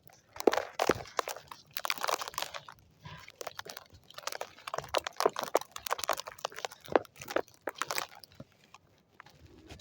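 Dry lumps of white sand crumbling and crunching, gritty crackles in several bursts with short pauses between them.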